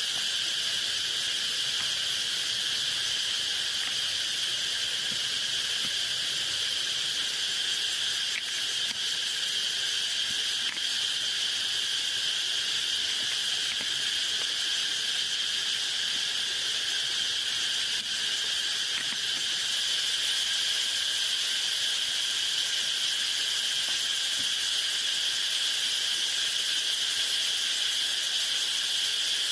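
Steady, high-pitched chorus of insects trilling together without a break.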